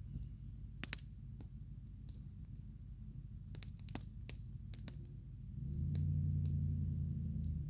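Campfire crackling, with scattered sharp pops and snaps over a low rumble. The rumble grows louder about five and a half seconds in, then eases near the end.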